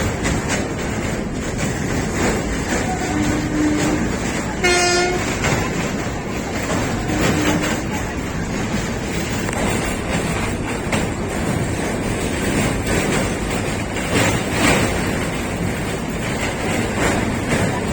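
Passenger train running at speed, heard from on board: a steady rumble with rail clatter. A short horn blast sounds about five seconds in, with two fainter brief tones shortly before and after it.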